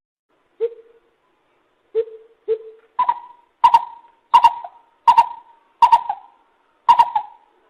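Lesser coucal calling: three low hollow notes in the first two and a half seconds, then a run of higher, sharper double notes repeated about every two-thirds of a second.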